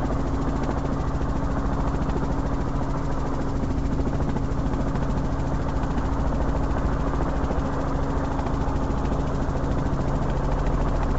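Robinson R44 helicopter in flight: the piston engine and main rotor drone steadily, with a fast, even rotor beat under a few constant low tones.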